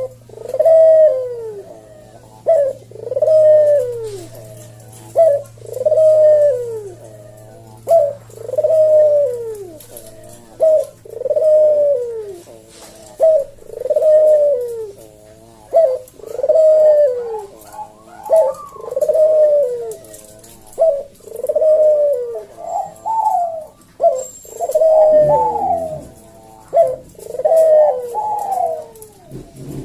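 Puter dove cooing in a slow, steady series of falling "kuk-deruk" coos, about one every one and a half seconds. The coos come faster and more broken near the end, and a low hum underneath fades out about a third of the way in.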